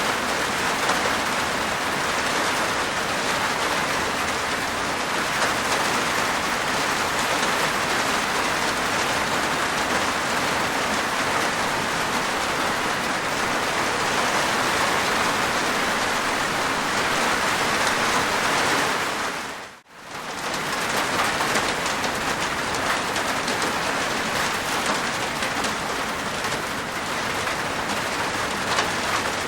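Steady rain falling on a rooftop, an even patter of raindrops. About two-thirds of the way through, the sound dips briefly almost to silence and then comes straight back.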